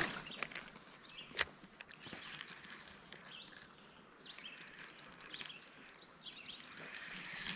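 Quiet outdoor ambience by a creek: a steady faint hiss with a few faint bird chirps, and one sharp click about a second and a half in.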